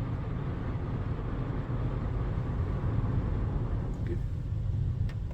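Mark VII ChoiceWash XT automatic car wash running as its brush stage begins: a steady, deep rumble with a wash of noise over it, thinning a little about four seconds in.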